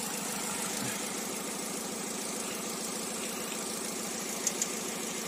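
Freshly reassembled Hyundai Grand i10 petrol engine idling steadily and evenly, running well. Two short clicks come about four and a half seconds in.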